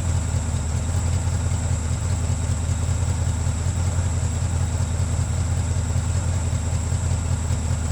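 1971 Ford Mustang Mach 1's V8 engine idling steadily.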